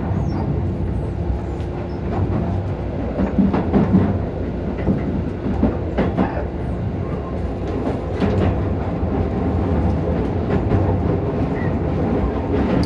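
Keisei 3000 series electric commuter train running, heard from inside the car: a steady rumble of the wheels and running gear with a faint steady hum, and irregular sharp clacks as the wheels cross rail joints.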